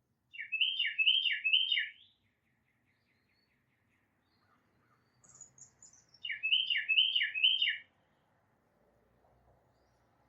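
Tufted titmouse singing its whistled 'peter-peter-peter' song: two phrases of three repeated two-note whistles, the first right at the start and the second about six seconds in. Faint high chips and a soft trill from other birds come between them.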